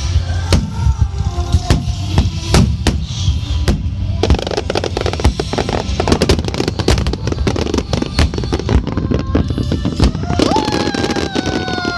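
Fireworks going off: deep booms, then from about four seconds in a dense, continuous crackle of many small bursts, with music playing underneath. A held, gliding tone rises in near the end.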